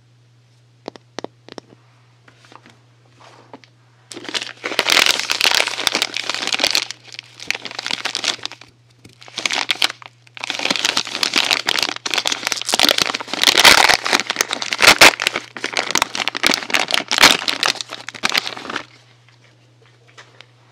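Packaging being handled and unwrapped, crinkling loudly in long stretches from about four seconds in until shortly before the end, with a brief pause partway. A few light ticks come about a second in.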